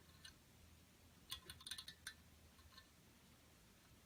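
Faint, light clicks and taps from handling a 1/200 scale model airliner: one click shortly after the start, then a quick cluster of them about a second and a half in.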